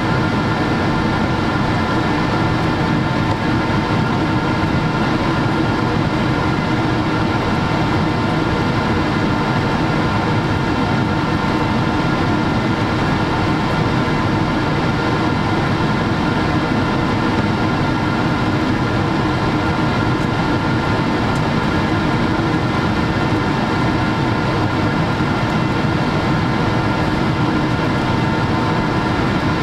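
Steady cabin noise inside a Boeing 777-300 airliner: an even rumble of engines and airflow with a few steady tones running through it.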